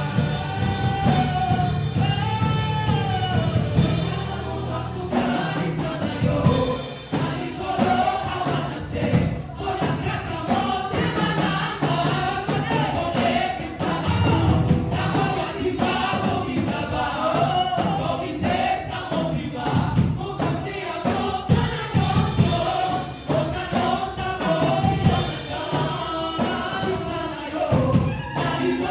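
Gospel worship music: a choir or congregation singing with a band, with bass and drums.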